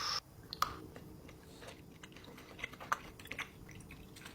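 Faint chewing and small mouth clicks of a person eating a chocolate bar, a few scattered ticks over a low steady hum.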